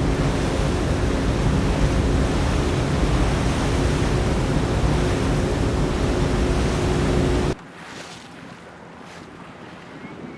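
Motorboat engine running under way with wind rushing on the microphone and a steady hum. About seven and a half seconds in it cuts off suddenly to a much quieter hiss of wind and water.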